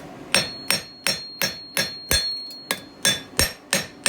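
Blacksmith's hand hammer striking hot steel on an anvil, about a dozen evenly paced blows at about three a second, with a high ring carrying between the blows for the first part. The blows stretch the outside striking edge of a fire steel so that it curves over.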